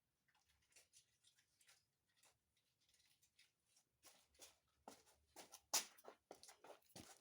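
Faint scattered clicks and light rustling of small items being handled in a small room. They are sparse at first and come thicker from about four seconds in.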